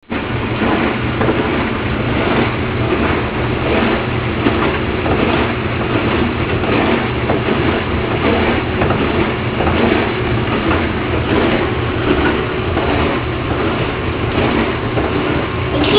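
Noisy dishwasher running mid-cycle: a steady low hum under a loud, rhythmic churning swish of water.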